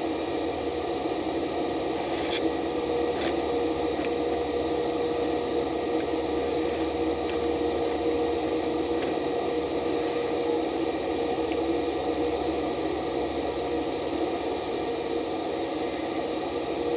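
Stick-welding arc burning steadily with a continuous crackling sizzle and a few sharp pops, as a weld bead is run on the steel of a backhoe arm.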